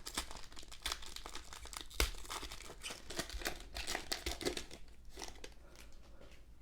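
The wrapper of a basketball trading-card pack being torn open and crinkled. It makes a dense run of crackles and small clicks that thins out after about five seconds.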